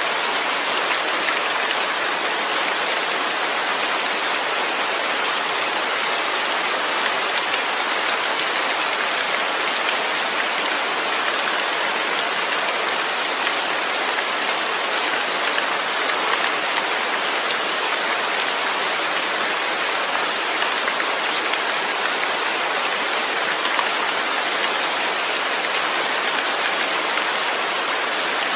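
Steady, even rainfall, a constant hiss of drops with no breaks or changes.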